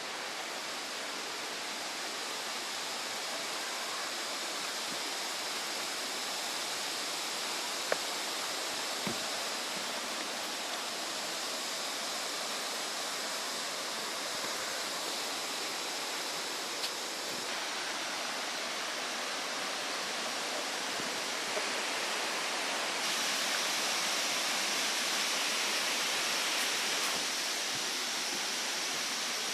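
Waterfall: the steady rush of falling water, briefly louder for a few seconds near the end, with a couple of faint clicks.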